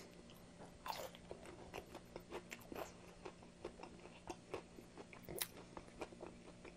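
Close-miked chewing of homemade fried chicken tenders with a crisp batter: an irregular run of small crunches and mouth clicks, a few a second, with louder crunches about a second in and again about five and a half seconds in.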